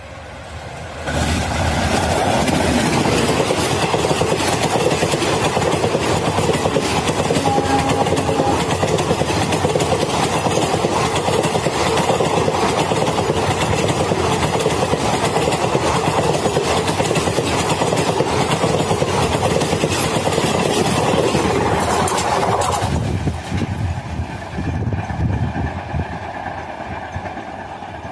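A train passing close by at speed: a loud rush of wheels on rails comes in suddenly about a second in and holds for some twenty seconds, then drops off abruptly as the last coach goes by, leaving a fainter rumble that fades away.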